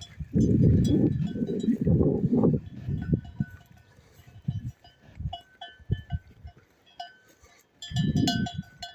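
Livestock neck bells clanking and tinkling irregularly as the flock moves and grazes. Loud low rumbling noise on the microphone covers them for about two seconds near the start and again briefly near the end.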